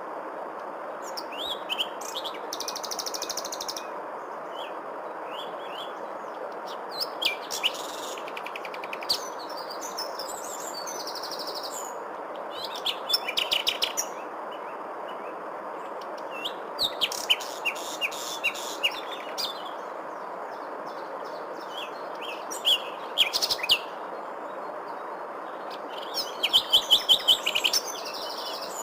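Songbirds chirping and trilling in scattered bursts, with a rapid run of loud repeated notes near the end, over a steady background hiss.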